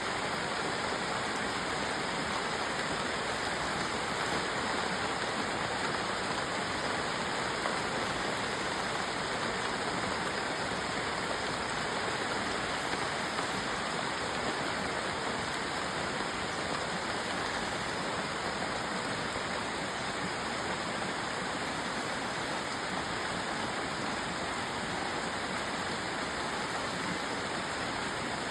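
Steady rain falling, an even rushing hiss that does not change.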